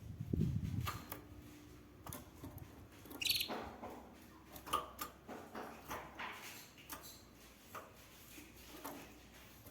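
A canary giving occasional short chirps among light clicks and rustles, with a dull thump at the very start and the loudest chirp about three seconds in.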